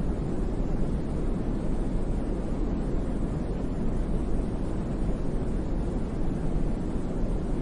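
Steady brown noise: an even, unchanging hiss weighted heavily toward the low end, with no pitch or rhythm, like a deep rumble of wind or a distant river.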